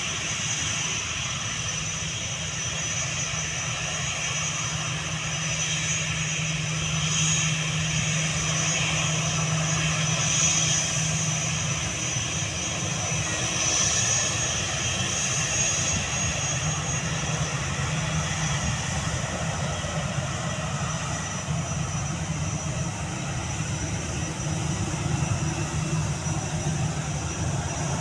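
Airbus A320-214 jet engines (CFM56 turbofans) running steadily: a low rumble with a steady high-pitched whine over it.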